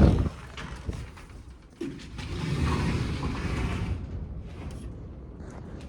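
Vehicle and mechanism sounds: a knock about two seconds in, followed by a whooshing rumble that slowly fades.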